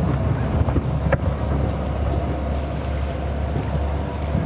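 Fireworks show: a sharp bang about a second in among fainter pops, over a steady low rumble.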